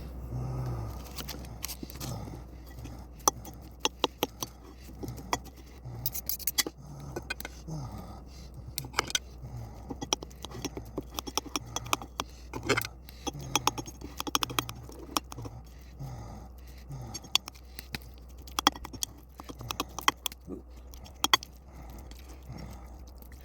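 Metal utensil clinking and scraping against a baked yam and its dish while butter is spread on it: irregular sharp clicks and light scrapes.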